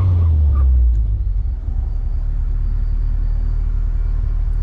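Car engine running with a steady low drone. Its note drops in pitch during the first half second, then holds without revving.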